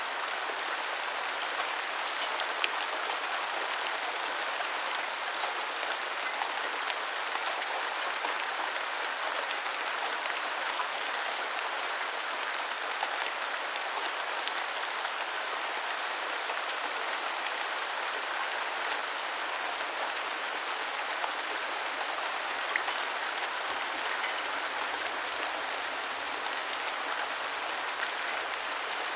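Steady rain falling, an even hiss with scattered sharper drop hits ticking through it.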